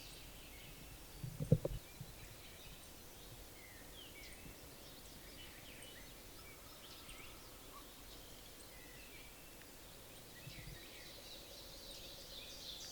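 Small birds chirping and calling in scattered short notes, over faint outdoor background noise. One brief low knock or rustle comes about a second and a half in.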